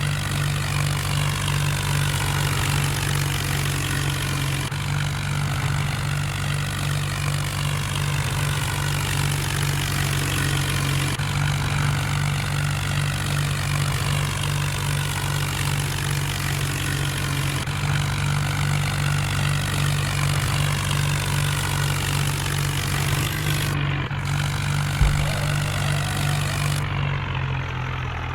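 Tractor engine running steadily with a deep, even drone. There is one brief thump about twenty-five seconds in.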